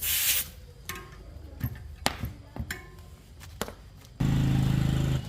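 Bicycle repair work: a short spray hiss, then scattered sharp metal clicks and taps of tools on the bike. Near the end comes about a second of loud, steady low hum.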